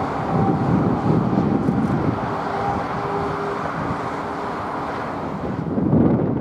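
Jet airliner engines running at the airport, a steady rumble with faint whining tones through the middle, and wind buffeting the microphone.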